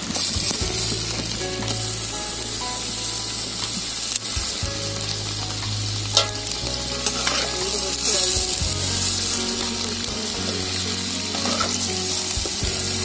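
Country chicken pieces deep-frying in hot coconut oil in a kadai: a steady crackling sizzle, with a slotted steel ladle stirring and lifting the pieces and a couple of sharp knocks against the pan around the middle.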